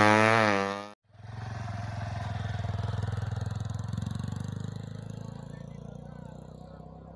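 Small racing motorcycle engine at high revs, cut off abruptly about a second in. Then a fainter motorcycle engine sound rises slightly and fades steadily away, as if the bike is moving off into the distance.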